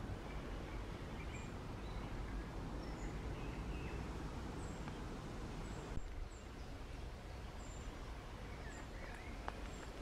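Small birds chirping and calling, with short high notes every second or so, over a steady low background rumble.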